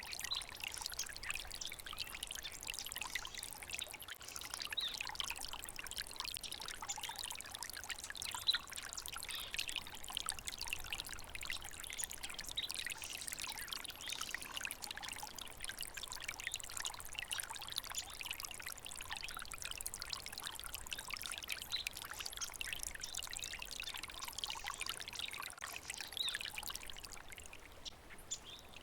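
Small stream babbling and trickling steadily over stones, a continuous splashy water sound.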